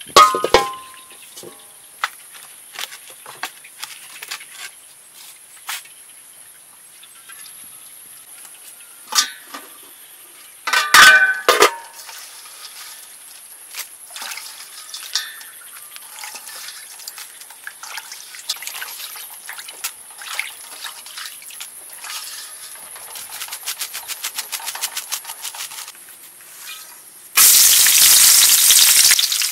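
Cooking-prep sounds: ringing metal clanks from a large wok and its lid, scattered knocks, and water splashing as grasshoppers are rinsed in a woven basket over a basin. Near the end, a sudden loud sizzle starts as lemongrass, lime leaves, chillies and garlic drop into hot oil in the wok and begin deep-frying.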